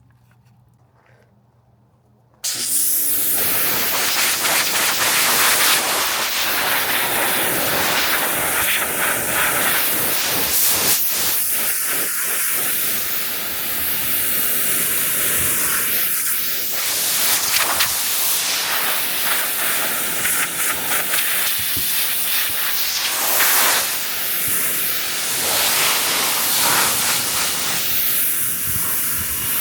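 Pressure washer jet spraying a car's bodywork: a loud hiss that starts abruptly about two and a half seconds in, its tone shifting as the spray moves over the panels.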